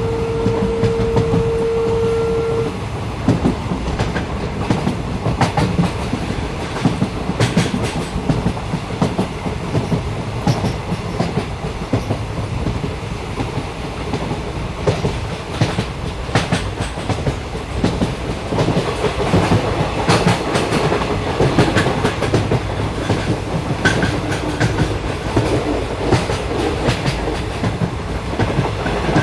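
Train running on the rails, heard from on board: a steady rumble with irregular clicks and clatter from the wheels. A single steady tone, like a horn, is held for the first few seconds.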